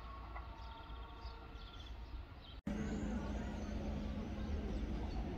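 Wind rumbling on the microphone over distant railway sounds, with a few faint steady tones fading out. About halfway there is an abrupt cut, then a steady low hum and wind as an electric Appenzellerbahnen train approaches.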